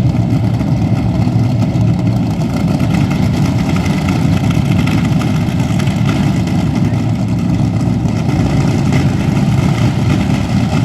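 Drag racing car engines running with a steady low rumble.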